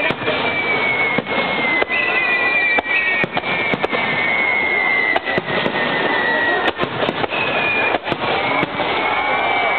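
Edo-style starmine fireworks barrage: a dense run of bangs and crackling bursts, with several long whistling shells overlapping, each whistle sliding slowly down in pitch.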